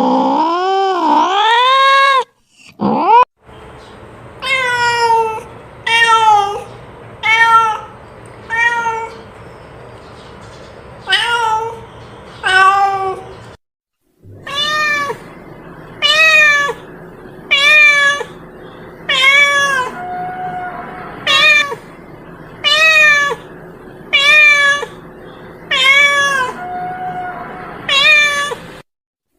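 A cat meowing: one long wavering yowl at the start, then a string of short meows, each rising and falling, about one every one and a half seconds. Twice the sound cuts off abruptly for a moment before the meowing resumes.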